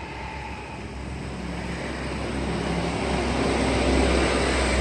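A motor running with a steady low hum and a mechanical drone that grows steadily louder over several seconds.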